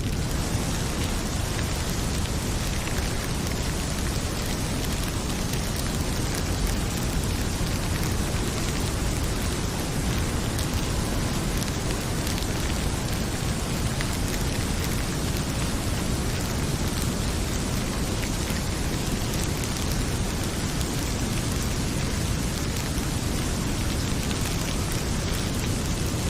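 Heavy rain pouring steadily, with a wood fire crackling in a fireplace as faint scattered pops over the rain's even hiss.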